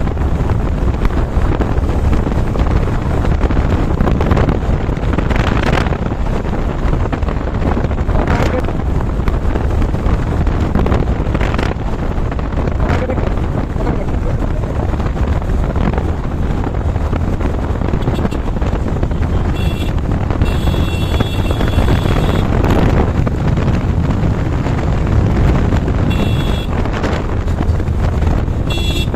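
Wind rushing hard over the microphone of a moving motorcycle, with a steady low rumble of engine and road underneath. Short high-pitched tones cut in twice, about twenty and twenty-six seconds in.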